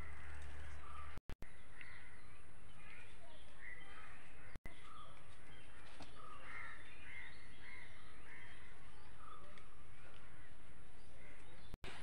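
Birds calling: many short calls scattered through, over a steady background hiss. The sound cuts out completely for an instant about a second in, again near the middle and near the end.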